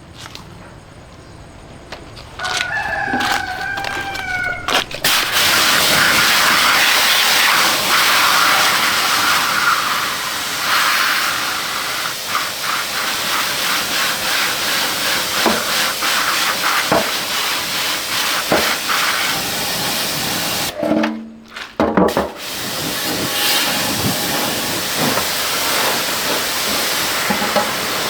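A rooster crows once near the start. Then a loud, steady spraying hiss of a high-pressure water jet begins, used to clean washing-machine parts. The jet breaks off for about a second near the end and then starts again.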